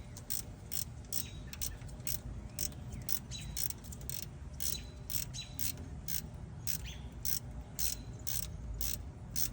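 Hand ratchet clicking in short back-and-forth strokes, a few clicks a second, as a bolt is turned.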